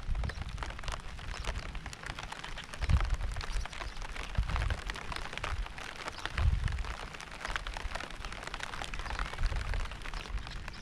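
Steady rain, with many separate drops striking close by over an even hiss. Low rumbles swell and fade a few times underneath.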